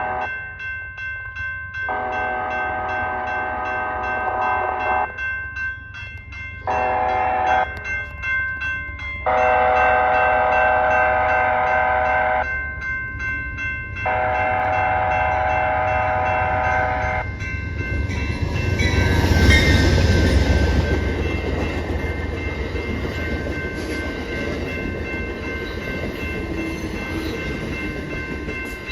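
Amtrak Empire Builder locomotive horn sounding a chord in about five blasts, most of them long, as it nears the crossing. Then the train passing, a loud rumble with hiss that peaks a few seconds after the horn stops and runs on.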